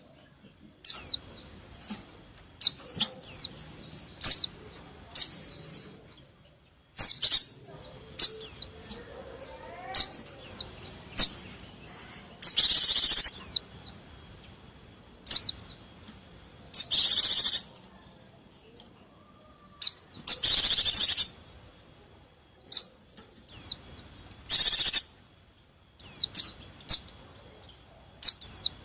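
White-eyes (pleci) calling busily: short, high, down-slurred chirps, broken by several loud bursts of rapid chattering about a second long. These are the agitated "ribut" calls used as a lure to draw in wild white-eyes.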